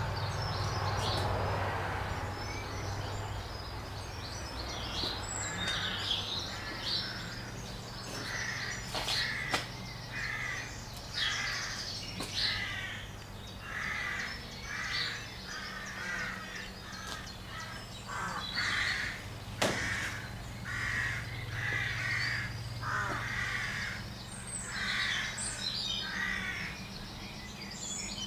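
Birds calling in a long run of short, repeated calls, roughly one or two a second, with a few sharp knocks, the loudest about two-thirds of the way through.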